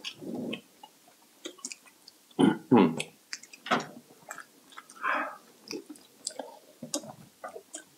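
A person chewing and biting food close to the microphone: irregular mouth clicks and chewing noises, with a few louder bites or mouth sounds about a third of the way in and again near the middle.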